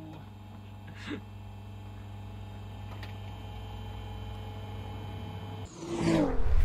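Nissan 350Z's 3.5-litre V6 idling with a steady low hum. About six seconds in, a loud swelling whoosh-like sound effect cuts in over it.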